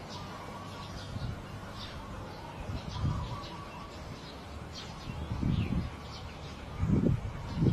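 Small birds chirping, short high calls about once a second over a steady background. From about five seconds in, low dull rumbles come and go and are the loudest sound.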